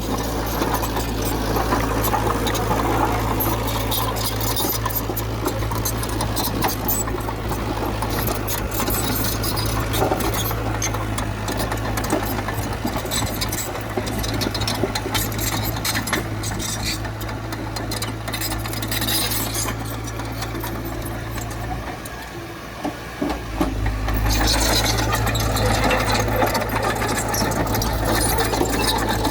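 A diesel engine of heavy earthmoving machinery runs steadily under a rapid metallic clatter. The low engine drone drops away for about a second and a half a little after twenty seconds in, then comes back louder.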